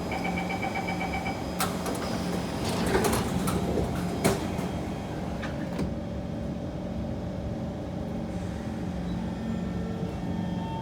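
Door-closing chime on a Kawasaki C151 metro train, a quick run of beeps, followed by its sliding doors shutting with several clicks and knocks. The train's steady low hum carries on after the doors close.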